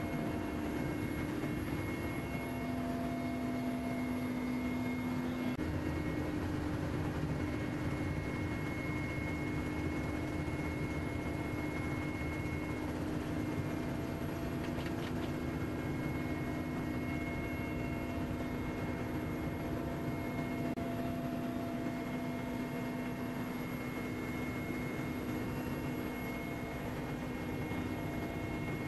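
Mi-8 helicopter's twin turboshaft engines and rotors running steadily in flight: a constant dense drone with several steady tones over it.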